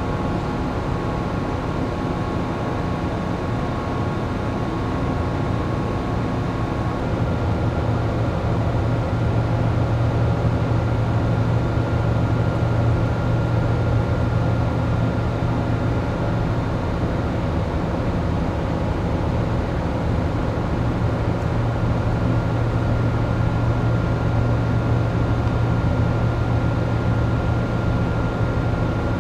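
Steady machinery and ventilation hum inside a moored passenger-cargo ship, a low drone with a few thin steady tones over it. About seven seconds in the drone grows louder and a thin high whine stops.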